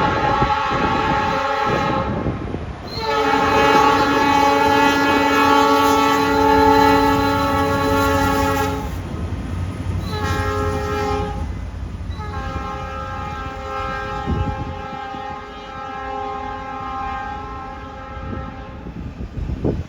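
Diesel freight locomotive horn sounding the grade-crossing signal in four blasts, long, long, short, long, over the low rumble of the passing train.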